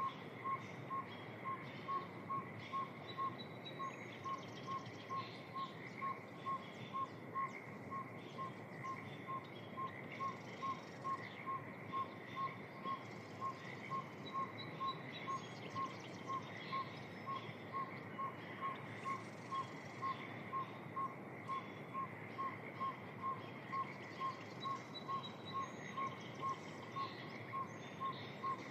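Evening wetland soundscape: a bird gives an unbroken series of short, single-pitched notes, about two a second, while other birds chirp and trill higher up over a steady hiss.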